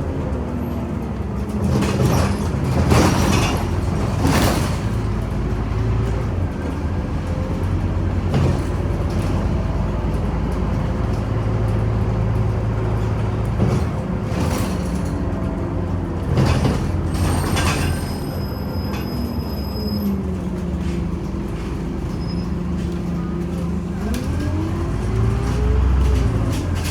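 Scania OmniCity bus under way: a steady engine drone whose pitch shifts as the bus speeds up and slows, with several sharp knocks and rattles. Near the end a tone rises and falls.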